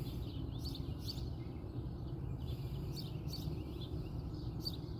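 Outdoor background: a steady low rumble with scattered short bird chirps.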